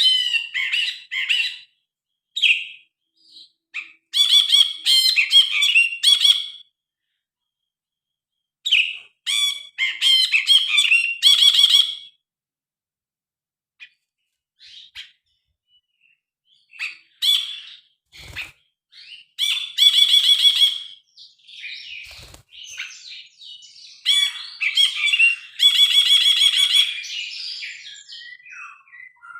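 Cinereous bulbul (brinji kelabu) singing: bursts of rapid, varied chattering and whistled notes, separated by pauses of a second or two. Two brief low thumps come in the second half.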